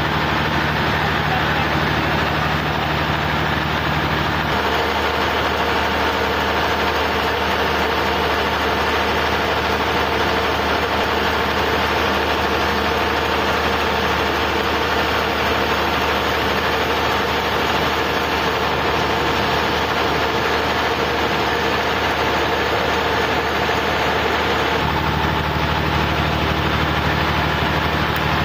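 A sawmill's engine running steadily. Its low tone changes about four seconds in and returns to the first tone near the end.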